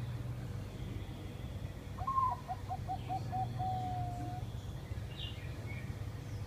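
Zebra dove (merbok) cooing once about two seconds in: a short opening note, a quick run of about seven short staccato coos, then a longer held note. A faint high chirp comes near the end, over a steady low hum.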